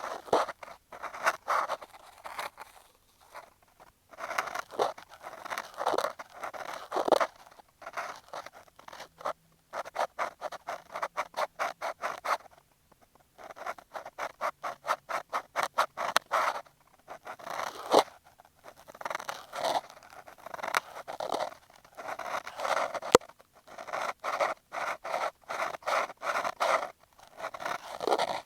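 Cotton swab rubbing and scraping directly on an earphone microphone, the close-up scratchy sound of ASMR ear cleaning. It comes in runs of quick strokes, at times about four a second, broken by short pauses.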